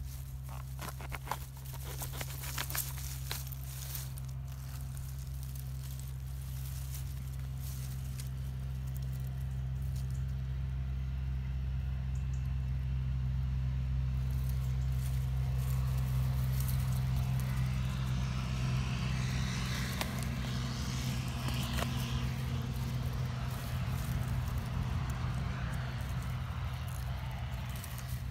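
A motor vehicle's engine running as a steady low hum, growing louder through the middle and easing off toward the end. A few sharp clicks come in the first few seconds.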